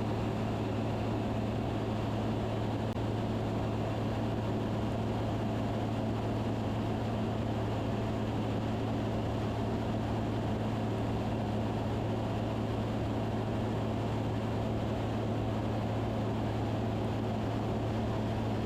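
Van's RV-10 light aircraft engine and propeller droning steadily in cruise, heard inside the cabin, with no change in pitch or level.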